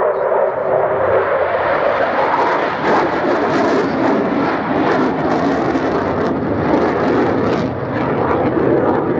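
Belgian Air Force F-16 fighter jet's engine noise during a display pass, loud and steady, growing harsher and hissier from about two seconds in, with sharp crackles through the middle.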